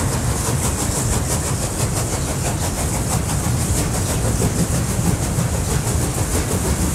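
A train running along the rails: a steady low rumble with a hiss over it and a fast, even rhythmic clatter.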